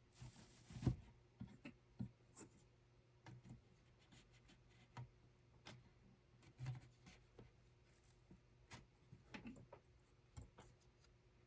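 Faint hand-work sounds: scattered small clicks, taps and soft rubbing at an irregular pace, with one firmer soft knock about a second in, as of hands handling thread and weaving tools.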